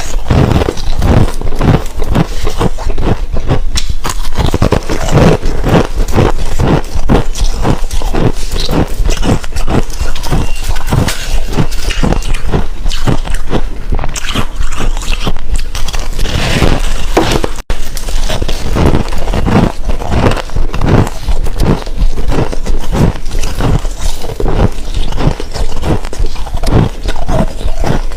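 Close-up crunching and chewing of soft frost, loud, in a rapid continuous run of crisp bites and chews, with a momentary break about two-thirds of the way through.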